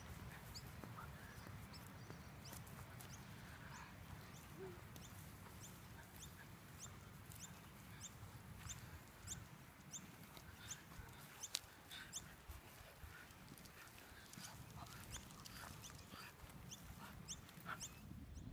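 Faint open-air park ambience: a low wind rumble, with a bird's short high chirp repeating about twice a second.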